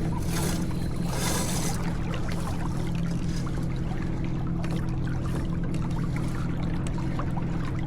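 Water rushing and trickling along the hull of a J24 sailboat under way, over a steady low hum, with a couple of louder rushes of noise in the first two seconds.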